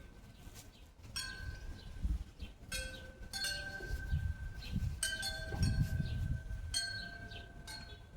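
Metal wind chimes being struck again and again, each strike ringing on in long, steady notes at a few different pitches, over an uneven low rumble.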